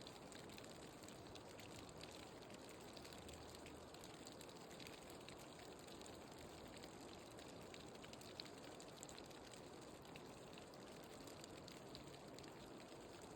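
Near silence: a faint even hiss with scattered tiny ticks.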